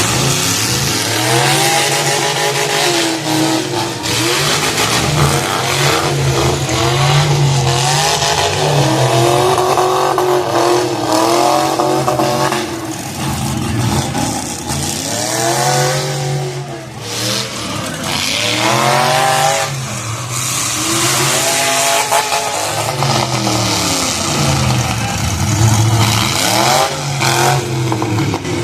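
Demolition derby car engines revving hard, their pitch climbing and dropping over and over as the cars accelerate and back off, over a steady din of engine and crowd noise.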